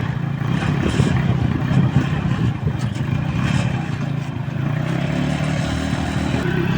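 Bajaj-Kawasaki motorcycle engine fitted in a homemade mini jeep, running steadily with an even low hum.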